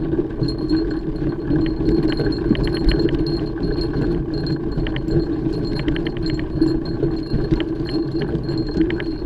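Mountain bike riding over a dirt trail: a steady rumble of tyres and wind with constant light rattling and clinking from the chain and frame over the bumps.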